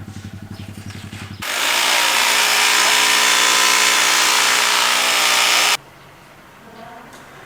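A power tool running loudly and steadily for about four seconds, starting and cutting off abruptly, after a low, evenly pulsing engine-like hum in the first second and a half.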